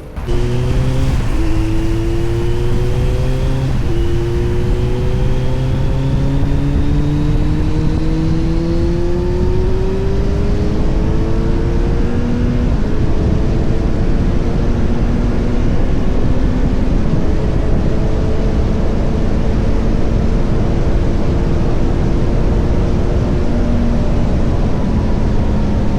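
Kawasaki Z900's inline-four engine accelerating hard, its note rising and dropping back with each upshift through two or three gears, then holding a steady cruise, with rushing wind and road noise throughout.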